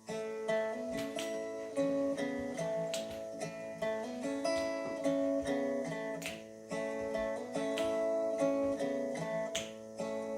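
Acoustic guitar strumming a steady, rhythmic chord pattern as the instrumental intro to a song.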